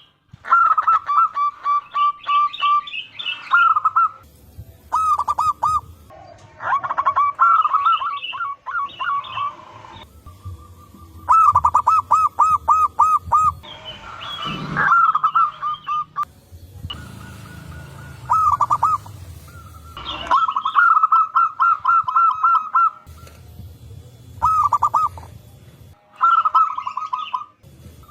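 Zebra doves (perkutut) cooing: bursts of rapid, warbling coo notes repeated over and over, with short pauses between phrases, as birds answer one another. A brief noisier sound about halfway through.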